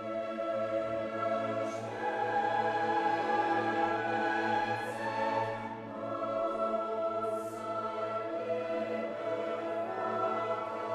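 Choral music: a choir singing long held chords with orchestral accompaniment.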